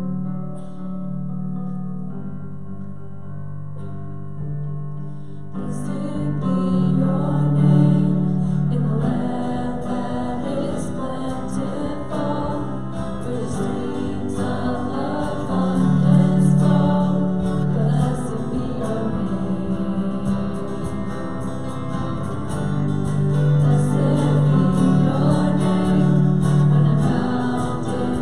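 A worship song sung by a group of voices with acoustic guitar. The guitar plays alone at first, and the voices come in about five seconds in.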